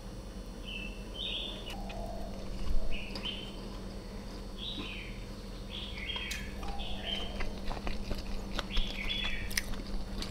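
Small birds chirping repeatedly in short, falling chirps, over a steady low hum. A few sharp clicks and one louder knock nearly three seconds in.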